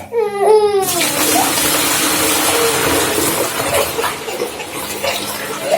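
Water running hard from a tap, a steady hiss that starts about a second in. A small child's voice whines just before it and carries on faintly under the water.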